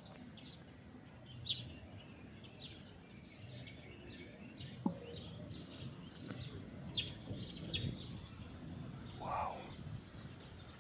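Faint outdoor ambience: small birds chirping now and then, over a steady high whine, with a few soft clicks.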